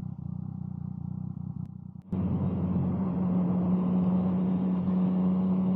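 Motorcycle engine running at a steady speed, a constant low drone. About two seconds in the sound drops out for an instant and returns louder, with the engine note stronger.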